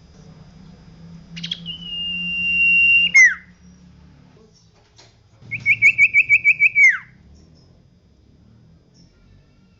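Common iora (cipoh) singing: a long, steady, clear whistle of about a second and a half that ends in a quick downward slur, then a fast run of about ten repeated notes closing with a falling slur.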